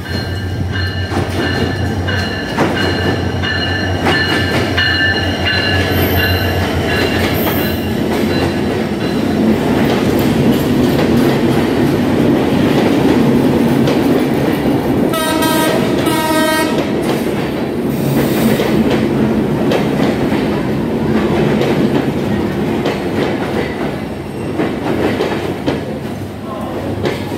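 A diesel passenger train's coaches rolling past at a station, with steady rumble and wheel clatter on the rails and a steady hum in the first several seconds. About halfway through, the train horn sounds two short blasts.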